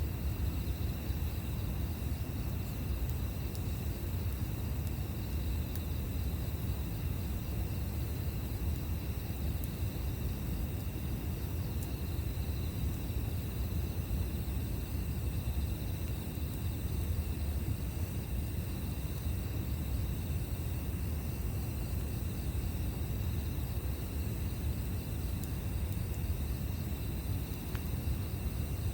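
Outdoor ambience: a steady low rumble under insects calling in unbroken high tones, with a few faint pops.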